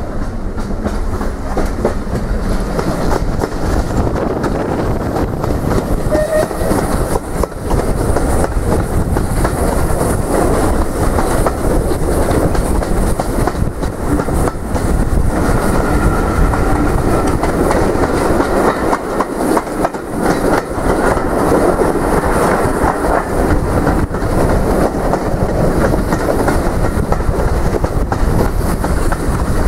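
A train running along the track, its wheels clicking over the rail joints in a steady loud rumble.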